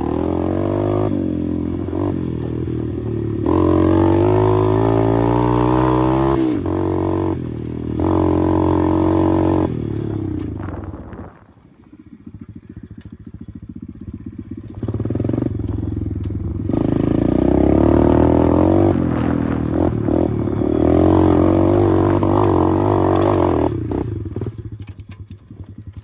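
125 cc pit bike engine being ridden, revving up and down as the throttle opens and closes. About eleven seconds in it drops back to a low, quiet running for a few seconds, then pulls hard again.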